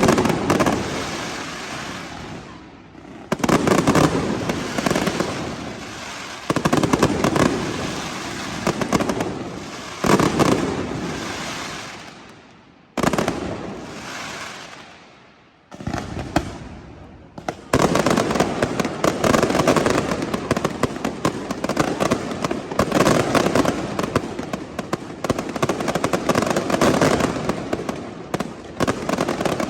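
Fireworks going off. For the first half, a loud bang comes about every three seconds, each fading away over a few seconds. Past the middle this gives way to a dense, continuous barrage of rapid bangs and crackling.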